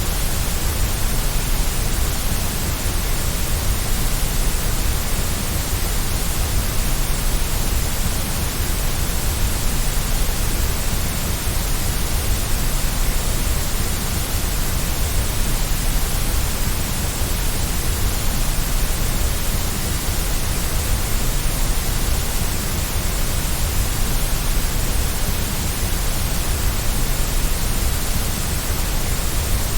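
Steady, unchanging white-noise hiss with no breaks, heaviest in the deep low end and the highs.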